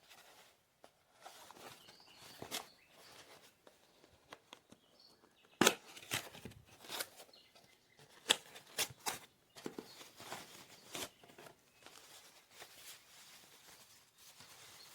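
Handling noise: irregular rustling with scattered sharp clicks and taps, the loudest about six seconds in and a quick run of clicks a couple of seconds later.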